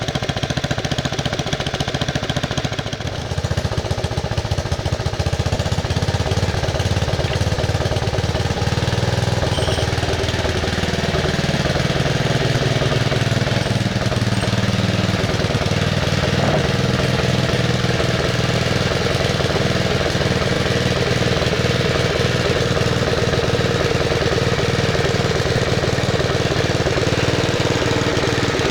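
Wisconsin S8D single-cylinder air-cooled engine of a 1969 Bolens 850 garden tractor running steadily. Its speed picks up about ten seconds in, then holds.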